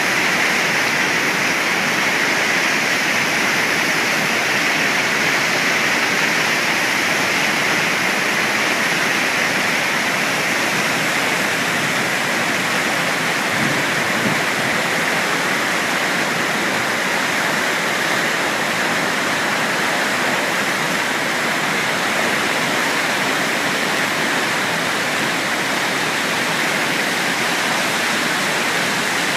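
Waterfall rushing: a steady, unbroken noise of falling water that holds the same level throughout.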